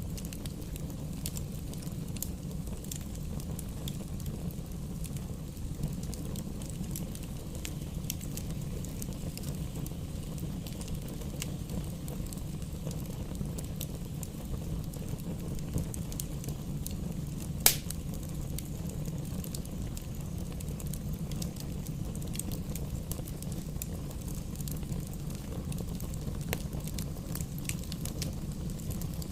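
Campfire burning: scattered crackles and snaps over a steady low rumble, with one loud pop a little past the middle.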